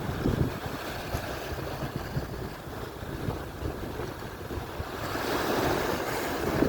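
Atlantic surf washing on the shore, with wind buffeting the microphone. A wave breaks and swells louder about five seconds in.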